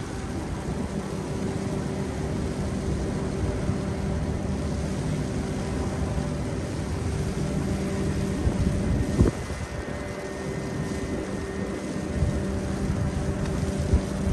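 City street traffic: a steady low rumble of vehicle engines with a held hum, broken by one sharp knock about nine seconds in.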